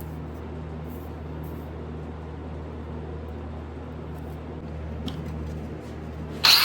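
Steady low hum of shop machinery with a few faint handling clicks. Near the end a loud, harsh tool noise starts suddenly and keeps going.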